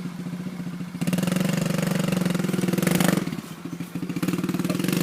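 Dirt bike engine running with a steady pulsing note. It picks up about a second in, eases off briefly past the middle, then picks up again.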